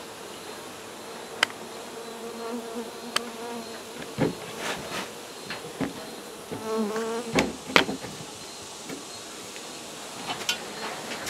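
Honey bees from an exposed colony buzzing in the air, with single bees passing close in wavering hums that come and go. A few sharp clicks or taps sound through it.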